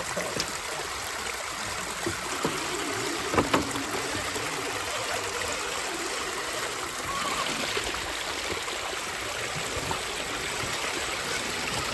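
Creek water rushing steadily over rocks, with a couple of sharp knocks about three and a half seconds in.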